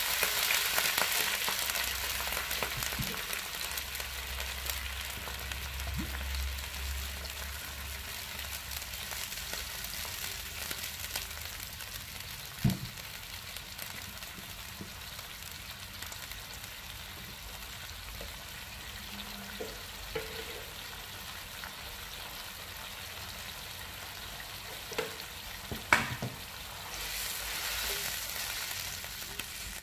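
Sliced onions, chillies and garlic sizzling in a wok as water is poured in, the hiss loudest at first and easing to a steadier, quieter simmer. A couple of sharp knocks come through, and near the end a wooden spatula stirs the mixture around the pan.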